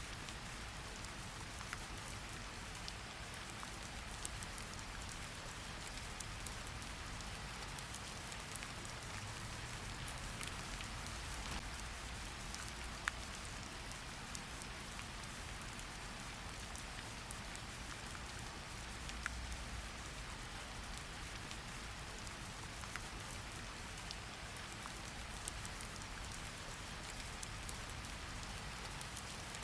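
Steady rain falling, with a constant hiss and the fine, close patter of individual drops hitting a surface, over a faint low rumble.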